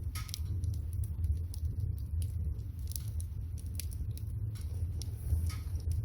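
Wood fire crackling, with irregular sharp pops and snaps, under a pot of water boiling, heard as a steady low rumble.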